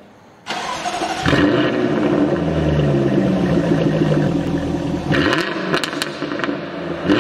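Sports car engine revving hard as an intro sound effect, its pitch climbing and dipping, starting about half a second in and getting louder a moment later. After about five seconds it turns rougher, with a few sharp cracks.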